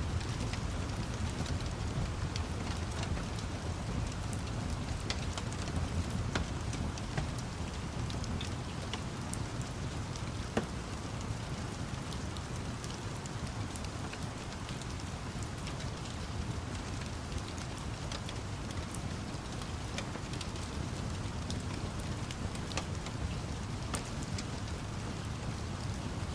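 Steady rain over a low rumble, with scattered sharp crackles and pops of a wood fire throughout.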